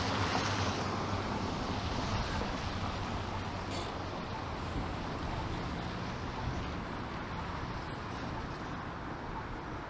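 City street traffic on wet pavement: a steady hiss of tyres with a low engine hum, slowly fading.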